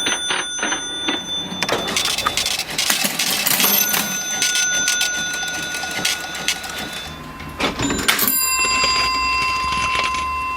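Vintage mechanical cash register being worked: a rapid clatter of keys and mechanism, then its bell rings, once around four seconds in and again with a sharp strike about eight seconds in that rings on for a couple of seconds.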